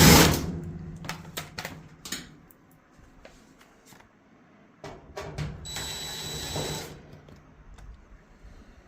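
A power screwdriver whirring to back screws out of a dryer's back panel: a short burst at the start and a steadier run of about two seconds just past halfway, with scattered clicks and knocks between.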